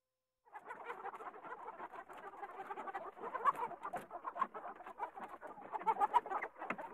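A flock of domestic chickens clucking continuously, many short overlapping calls, starting about half a second in.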